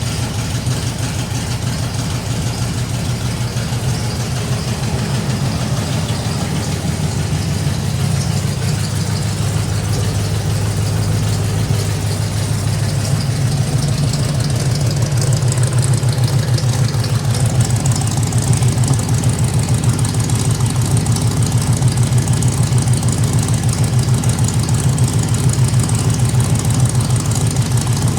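1970 Ford Bronco engine idling steadily after a cold start, with an even rapid pulse; it gets a little louder about halfway through.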